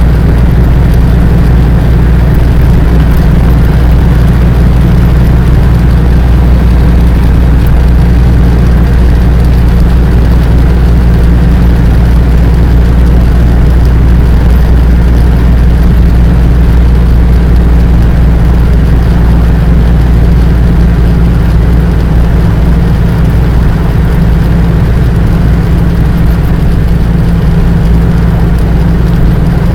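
Vehicle engine running with a steady, loud low drone.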